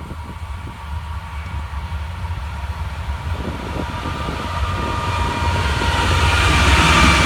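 Florida East Coast Railway freight train's locomotives approaching, a low rumble with a steady engine whine that grows steadily louder.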